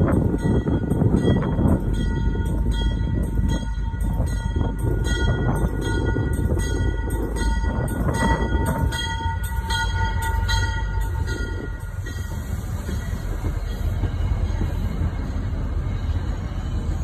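Commuter rail passenger train rolling slowly past at close range, its coaches and wheels making a steady low rumble on the track. A regular ringing of about two strikes a second runs alongside and stops about eleven seconds in.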